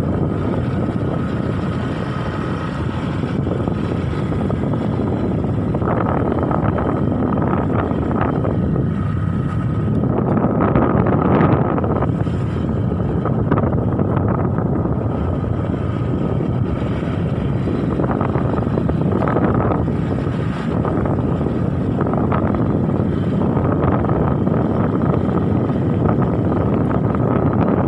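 Strong wind buffeting the microphone in uneven gusts over a steady low drone.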